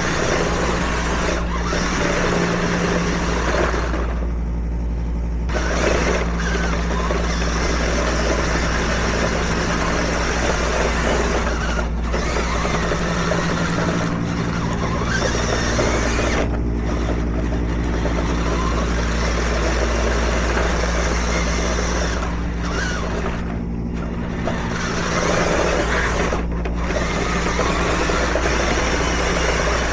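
Kyosho Blizzard tracked RC vehicle running and driving, with a steady motor hum and the clatter of the tracks; the sound eases off briefly every few seconds.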